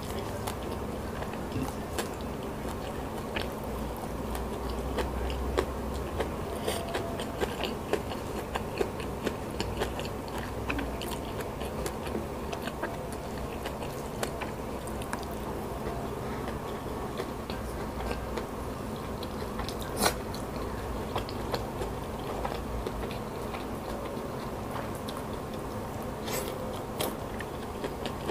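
Close-miked eating sounds of someone chewing a hand-eaten meal of rice, salted fish and fresh leaves dipped in chili sambal. Sharp wet clicks and crunches are scattered throughout.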